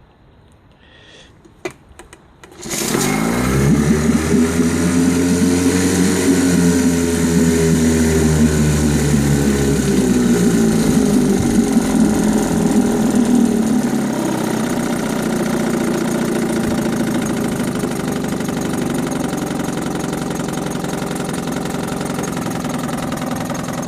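1967 Johnson 3 hp folding outboard's two-stroke engine starts about three seconds in, runs fast at first and then slows and settles to a steady low idle from about a quarter of the way through.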